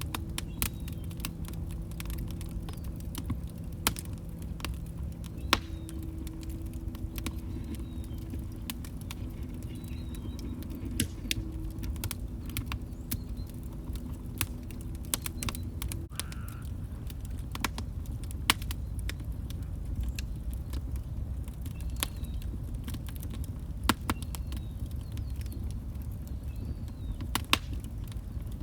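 Log fire crackling in a fireplace: irregular sharp pops and snaps over a low, steady rumble of burning. A low steady hum runs underneath and stops abruptly a little past halfway.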